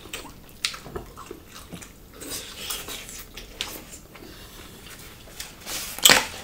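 Close-miked eating sounds: wet chewing, lip smacks and small mouth clicks from people eating a mushroom dish with rice by hand, with one louder sharp smack about six seconds in.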